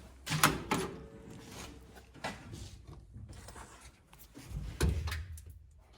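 A few sharp knocks about half a second in, then a duller, heavier thump around four and a half seconds in.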